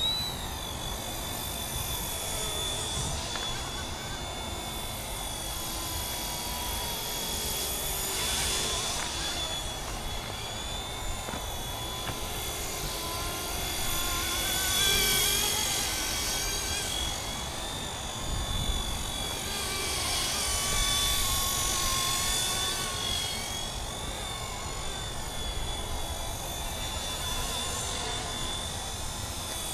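Radio-controlled MD 500 scale helicopter flying, a steady high motor-and-rotor whine that wavers slightly in pitch and swells louder a few times as it moves.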